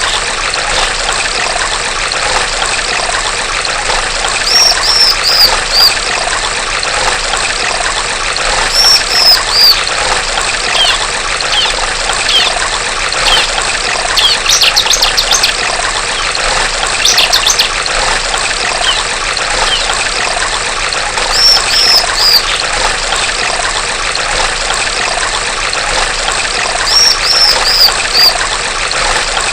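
Female bar-winged prinia (ciblek) calling in short bursts of three to five high, falling chirps every few seconds, with two quick rattling trills midway. Under it runs a steady trickle of flowing water.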